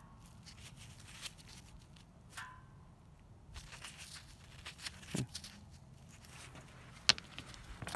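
Light rustling and small clicks of rocks being handled, with one sharp click about seven seconds in.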